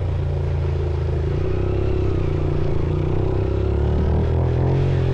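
Off-road motorcycle engine running steadily, its note shifting slightly about four seconds in.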